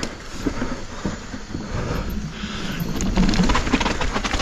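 Mountain bike rolling over rough, wet trail: tyre noise and a low rumble with scattered clicks and rattles of the bike, turning into a dense run of rapid knocks and rattles about three seconds in.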